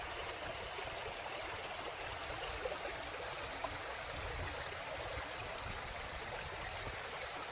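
Steady rush of running water, like a stream, with a few faint ticks scattered through it.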